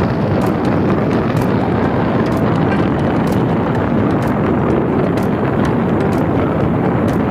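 Fire boat running: a loud, steady roar of machinery and rushing water, with faint sharp ticks about once a second.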